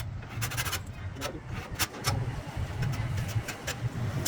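A steady low engine hum with irregular sharp clicks and knocks over it.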